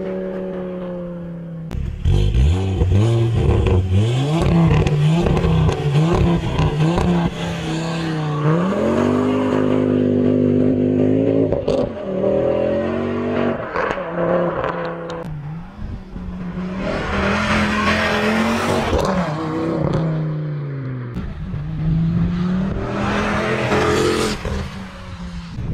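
Ford Focus ST225's turbocharged 2.5-litre five-cylinder engine driven hard: revving up and dropping back through the gears several times, in a series of short clips cut together. Stretches of hissing noise come in near the end.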